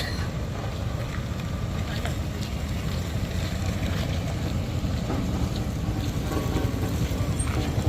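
Heavy diesel machinery running steadily, a continuous low engine rumble with faint scattered ticks.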